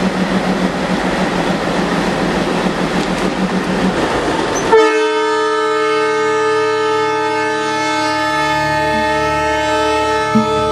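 A train running, a dense steady noise with a pulsing low rumble, then an abrupt change about five seconds in to a long, steady locomotive horn blast made of several held tones.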